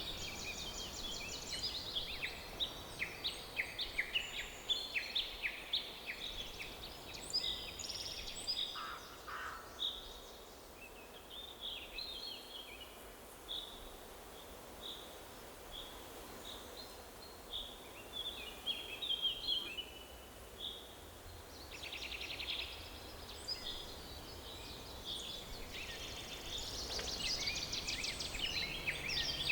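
Forest birdsong: several songbirds chirping and trilling over a faint steady background hiss, with a run of evenly spaced short whistled notes midway and a busier chorus of trills near the end.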